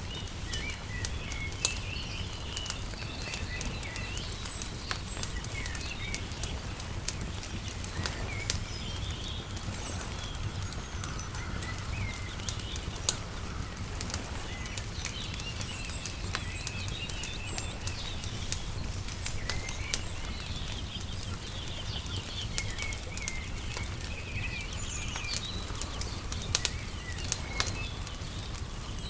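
Wood fire crackling, with frequent sharp pops, over birds chirping and a steady low rumble.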